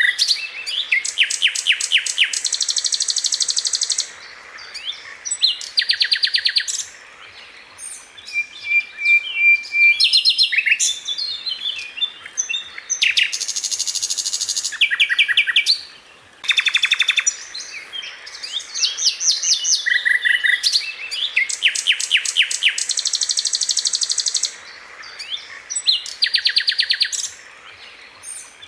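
Sikatan londo flycatcher singing: bursts of fast, densely packed trills of rapidly repeated sharp, high notes. Each burst lasts one to three seconds, with short pauses between them.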